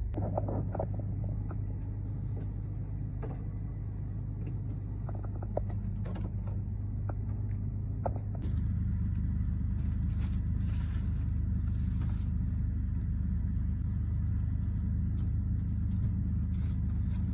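Car engine running with a steady low rumble, a few clicks and knocks over it in the first half; the rumble gets louder about eight seconds in.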